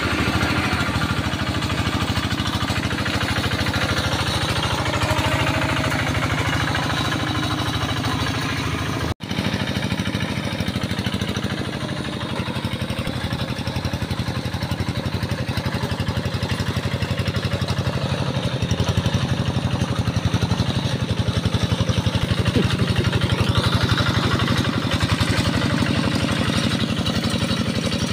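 Tractor engine running steadily while plowing a rice paddy; the sound drops out briefly about nine seconds in, then carries on.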